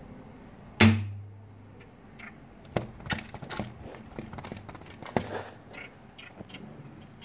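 A small bird striking and pecking at a window pane: one loud thunk about a second in, ringing briefly in the glass, then a run of lighter taps and clicks and another sharp tap a little after five seconds.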